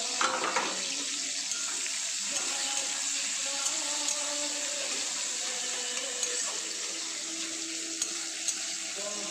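Sliced onions frying in hot oil in a pan: a steady sizzle with scattered small pops, louder for a moment right at the start as they go in.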